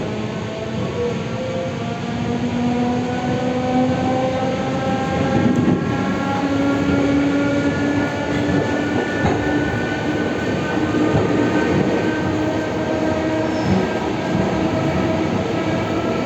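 Electric commuter train accelerating: several motor tones whine and rise steadily in pitch over the rumble of the wheels on the rails.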